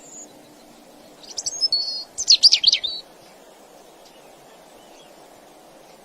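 A songbird singing one short phrase of quick, high chirps and rapid up-and-down notes, starting about a second in and lasting under two seconds. A faint steady low hum runs underneath.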